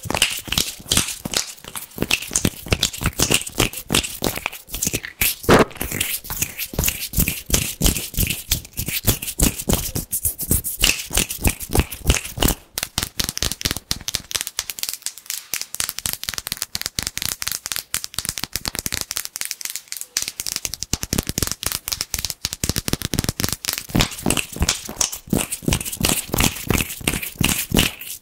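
Fast, aggressive hand sounds close to the microphone: a dense run of crisp, crackly rubs and taps of palms and fingers, several a second, without a break.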